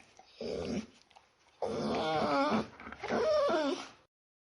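A dog whining and whimpering: a short low grunt, then two long wavering, pitched whines about a second each, stopping abruptly near the end.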